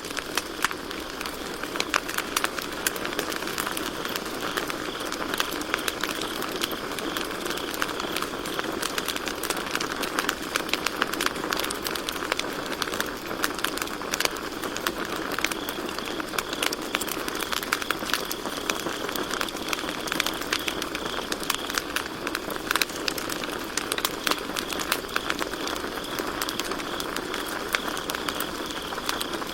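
Campfire of burning wood crackling, with dense sharp pops over a steady hiss. A steady high cricket trill runs underneath and grows clearer about halfway through.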